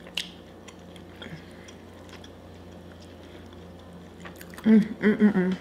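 Quiet chewing of a mouthful of fried rice, with a few small clicks, then a short burst of voice near the end.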